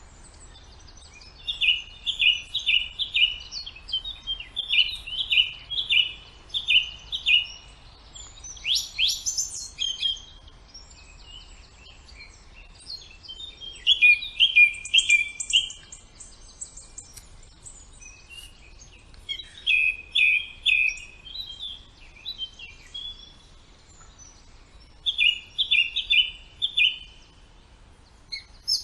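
Forest birds singing: short songs of quick repeated notes come again every few seconds, with a few higher, sweeping calls between them.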